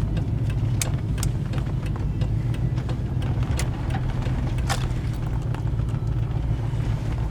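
Car engine running with a steady low hum, heard from inside the cabin, with scattered light clicks over it.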